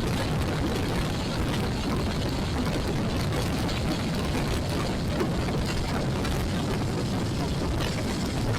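Steady wind and road rush on a Royal Enfield Classic 350 motorcycle's action camera mic while riding, the engine buried in the noise.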